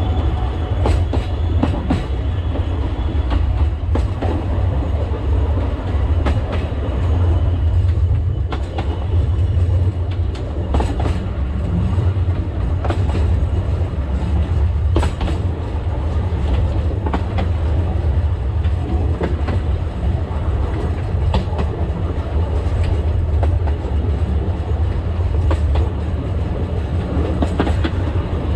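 Alishan Forest Railway narrow-gauge train running along the track: a steady low rumble, with irregular clicks of the wheels over the rails.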